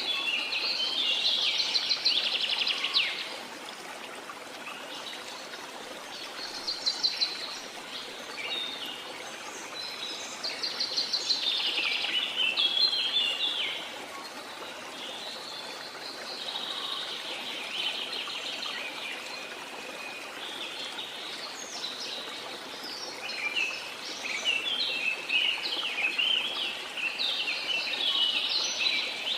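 Songbirds singing in bursts of rapid trilling phrases a few seconds long, repeated every few seconds, over a steady hiss of falling or running water in a rainforest ambience.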